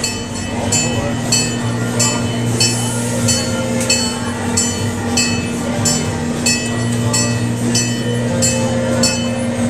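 Tourist train running, with a steady hum and a regular metallic clang about every two-thirds of a second.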